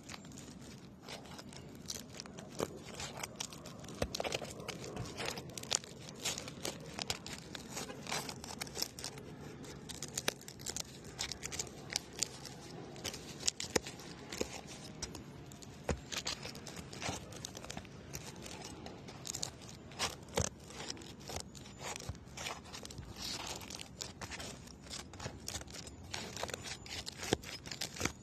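Asphalt roof shingle being pried loose with a roof snake: irregular sharp crackles, clicks and tearing as the tool works under the shingle and the adhesive seal strip pulls apart. The seal is really hard to break.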